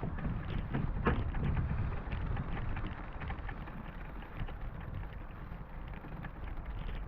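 Heavy rain falling with many small irregular drop taps, over a low rumble of wind on the microphone.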